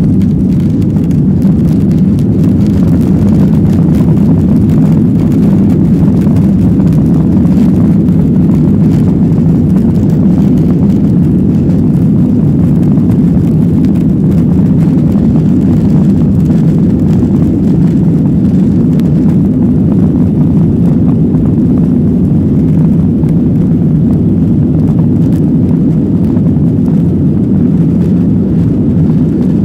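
Boeing 737-800's CFM56-7B jet engines at high thrust during takeoff, heard from inside the cabin: a loud, steady low rumble, with light rattling clicks through the first two-thirds.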